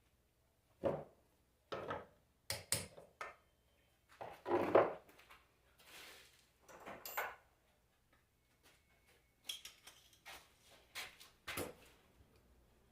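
Metal alternator parts being handled and set down on a workbench: irregular knocks, clinks and short scrapes, about a dozen, with a longer scraping clatter about four to five seconds in.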